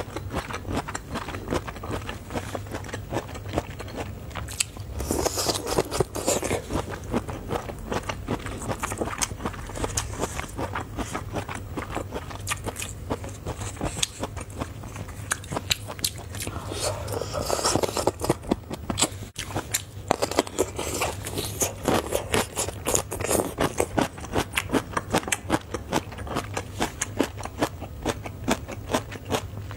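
Close-up chewing and crunching of cooked bamboo shoots, a dense run of small crackling clicks with louder bites now and then, mixed with the scrape of the shoots' layers being peeled apart by hand.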